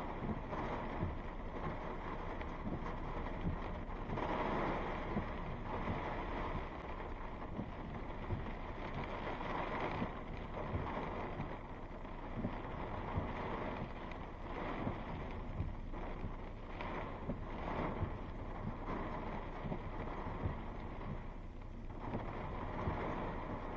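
Thunderstorm wind gusting and rushing over the microphone, swelling and easing every few seconds.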